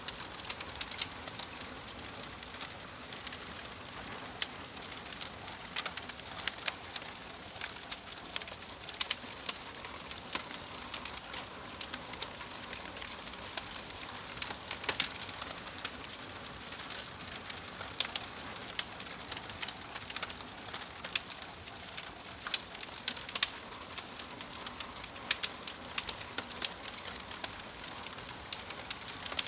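Wood fire crackling in a fireplace: a soft steady hiss with irregular sharp pops and snaps, several a second.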